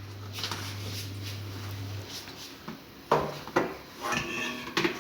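Plastic container being handled and knocked to turn a freshly microwaved cake out onto a plate: two sharp knocks in the second half, with some rustling and clatter. A low steady hum stops about two seconds in.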